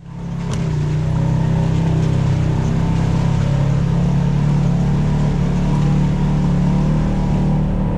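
A vehicle engine running steadily at a constant pitch, fading in over the first second.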